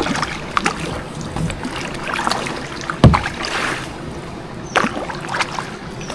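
Water splashing and sloshing around a small boat or paddle, with scattered knocks and one heavy thump about three seconds in.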